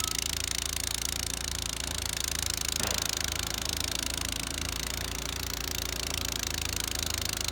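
Honda HS80 two-stage snowblower's single-cylinder engine running steadily, with a low even pulse under a hiss. A brief sweep comes about three seconds in.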